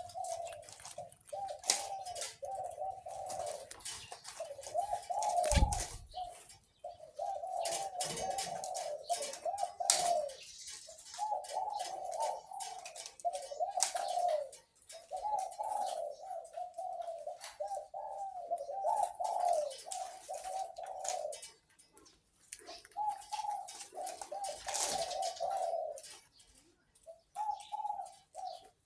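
Captive-bred dove cooing: phrase after phrase of quick rolling coo notes, each phrase a second or two long with short breaks between. Brief higher chirps and clicks sound now and then.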